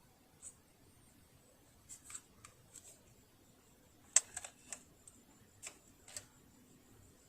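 Scattered light, sharp clicks and taps of small hard parts and tools being handled, about a dozen in all, the loudest a little over four seconds in.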